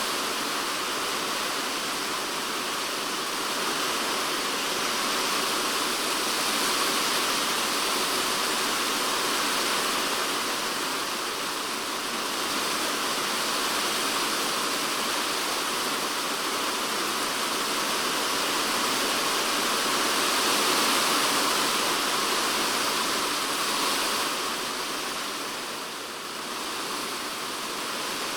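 Typhoon rain falling on a polycarbonate shed roof, heard from inside the shed: a dense, steady hiss of drops with no breaks, easing slightly near the end.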